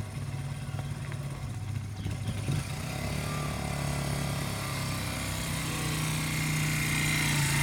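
Motorcycle engine running steadily, its hum growing louder over the last few seconds.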